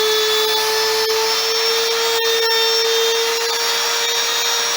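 Handheld router motor running at a steady high-pitched whine, spinning its bit in the sound-hole cut of a redwood guitar top, with one sharp click about two seconds in.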